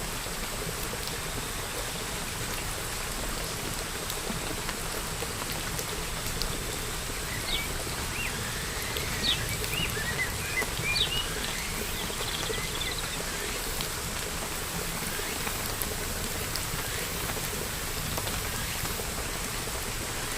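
Steady rain falling, with a bird chirping a quick run of short calls in the middle.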